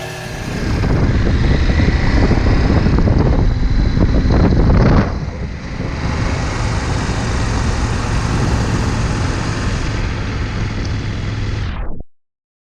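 Motorcycle under way: engine running with a rush of wind noise. It swells about half a second in, dips briefly about five seconds in, then runs steadily until it cuts off suddenly near the end.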